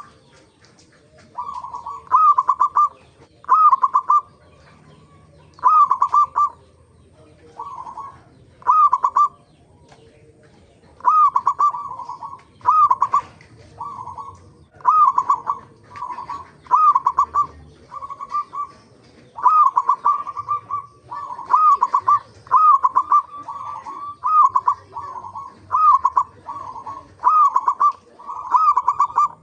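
Zebra dove (perkutut) cooing: short, clipped coo phrases repeated over and over. A pause of a couple of seconds comes about a third of the way in, then the phrases come faster and run together toward the end.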